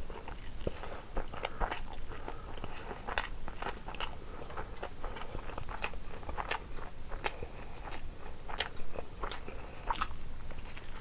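A person chewing and biting food close to the microphone: irregular sharp crunches and wet mouth clicks.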